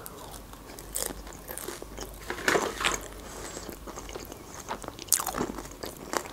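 A person biting into and chewing a McDonald's fried pie: the crisp pastry crust crackles sharply about a second in, twice near the middle and again near the end, between quieter chewing, heard close on a clip-on microphone.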